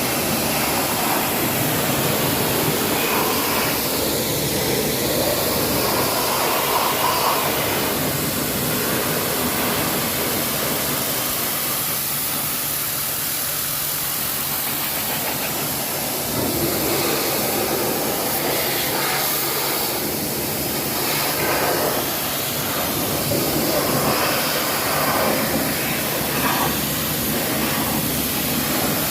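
Home-built 2000 psi high-pressure washer running, its water jet giving a steady hiss over the hum of the motor and pump.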